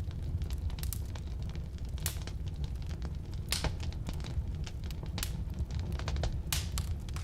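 Firewood burning: irregular crackling and popping over a steady low rumble, with a few louder snaps about two, three and a half, five and six and a half seconds in.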